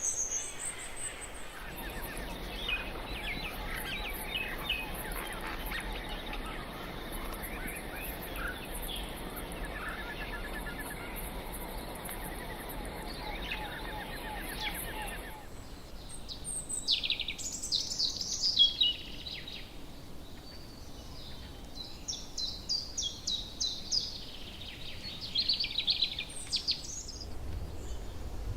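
Rainforest ambience of birds chirping and calling over a steady high insect-like hiss. About halfway through the background changes abruptly, the hiss drops away and louder, rapid trilling bird calls take over.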